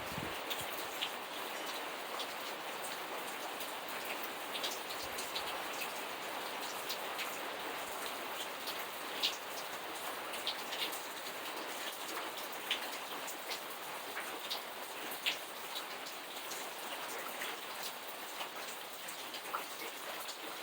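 Steady rain falling: an even hiss with scattered louder drops ticking sharply through it.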